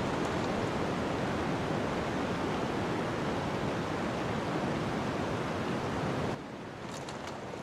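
Steady rushing of snowstorm wind that drops abruptly in level near the end, after which a few crackles of a wood fire come through.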